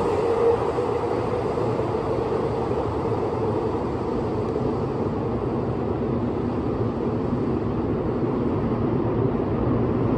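Keihan 8000 series electric train rumbling away down an underground tunnel after departing, a steady echoing rumble whose higher hiss slowly fades as it recedes. A steady tone heard at the very start dies away within the first half second.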